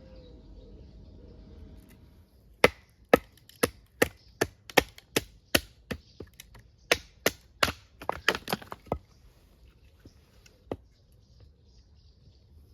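Wood being chopped by hand: a run of sharp, hard strikes at about two a second, then a pause and one more strike near the end.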